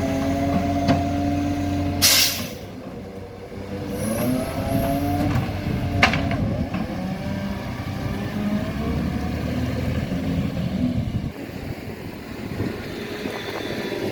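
Garbage truck's diesel engine running, with a short burst of air hiss about two seconds in. The engine revs up around four seconds in, and there is a single sharp bang about six seconds in.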